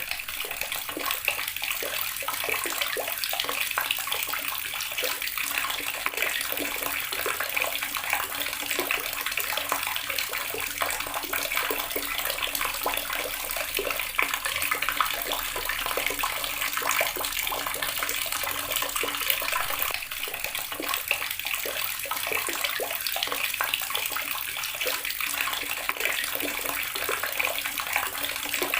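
Water running steadily from a tap and splashing into a basin or tub below.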